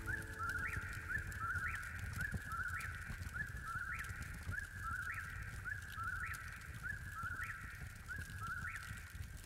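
A bird calling over and over, very regularly about once a second. Each call is a quick cluster of short rising chirps. A low rumble runs underneath.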